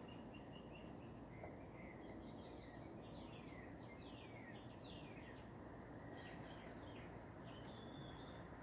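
Faint outdoor background hiss with wild birds chirping: scattered short notes, and a run of quick falling chirps through the middle.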